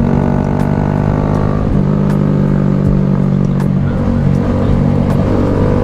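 Honda Grom motorcycle engine running steadily under load while riding, its pitch shifting slightly a couple of times with throttle.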